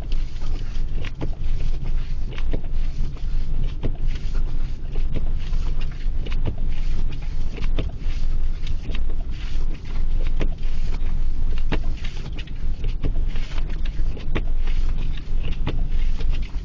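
Blizzard wind gusting and buffeting the microphone in a constant low rumble, with many sharp ticks and taps scattered through it.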